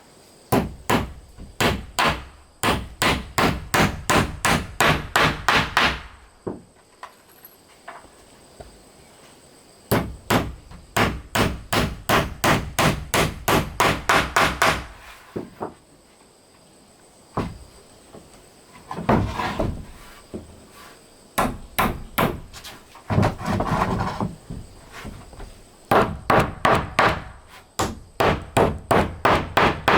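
Hammer striking nails into wood in runs of steady blows, about two to three a second, with short pauses between runs.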